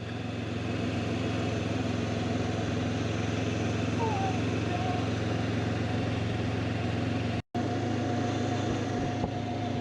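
Honda motorcycle engine running at a steady cruising speed while riding, an even hum that holds one pitch, with a brief dropout about three-quarters of the way through.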